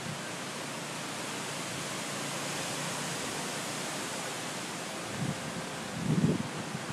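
Hurricane-force wind blowing through trees as a steady, even hiss, with gusts buffeting the microphone as low bumps near the end.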